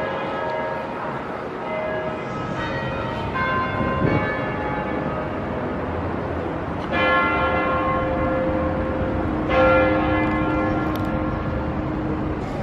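Bells ringing, several fresh strikes a few seconds apart, each left to ring on and fade.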